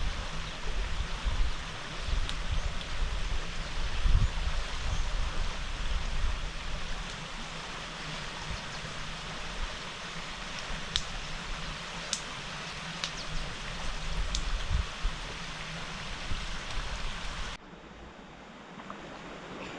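Steady rushing water noise, with an uneven low rumble and a few faint clicks. Near the end it drops abruptly to a quieter, thinner hiss.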